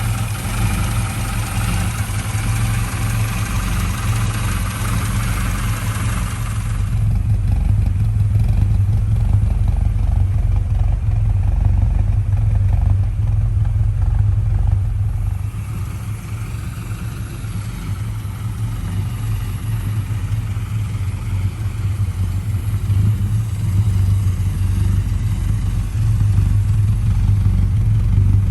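Ford Capri 1600's 1.6-litre four-cylinder engine running at idle, a steady low hum. There is extra hiss and clatter in the first few seconds.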